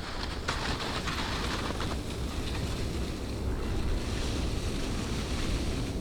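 Blizzard wind blowing steadily, with gusts buffeting the microphone as a heavy low rumble under a hiss.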